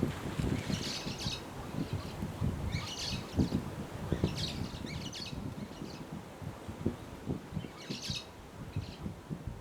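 Small birds chirping in short high bursts every second or two, over an irregular low rumble.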